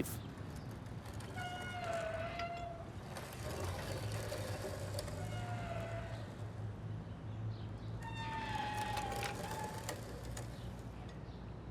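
An animal's drawn-out, cat-like calls, about four of them spaced a couple of seconds apart, the last one higher and longer, over a low steady hum.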